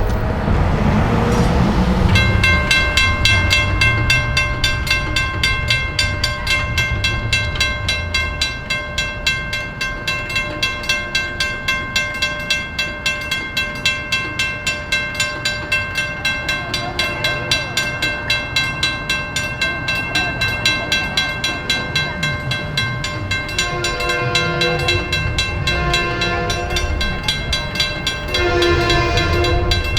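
A level-crossing warning bell rings steadily in rapid strokes, starting about two seconds in, over a low rumble that fades after several seconds. In the last several seconds a train horn sounds several blasts as a train approaches the crossing.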